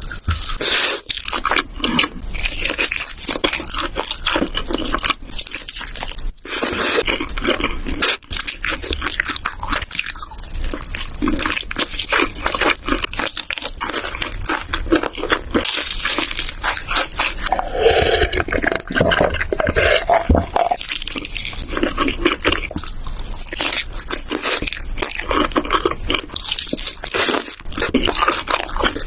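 Close-miked eating sounds: a person chewing Korean instant noodles with wet, crunchy mouth noises and smacks that go on irregularly throughout.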